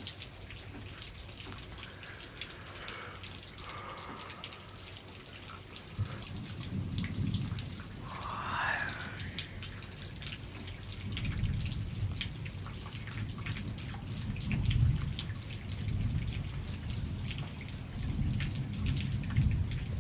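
Thunderstorm rain with raindrops and drips ticking sharply and continuously. From about six seconds in, several low rumbles swell and fade, each lasting a second or two.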